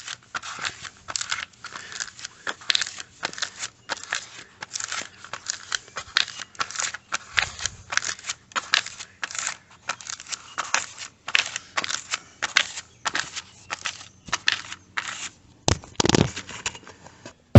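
Two-part finishing putty being mixed with its hardener: a spreader scraping and folding it on a mixing surface in quick repeated strokes, about two or three a second.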